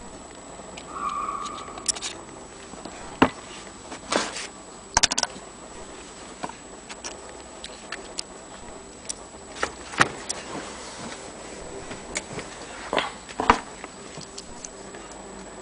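Scattered clicks and light knocks of an antique Jones sewing machine being handled, at uneven intervals rather than a running rhythm, over a faint steady high-pitched whine.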